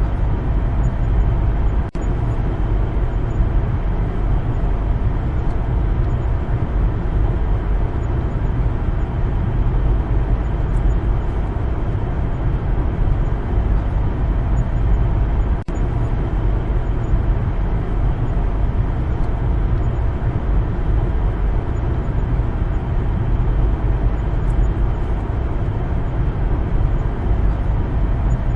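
Steady low rumble of a car driving on a road, engine and tyre noise. The sound drops out for an instant about two seconds in and again about halfway through.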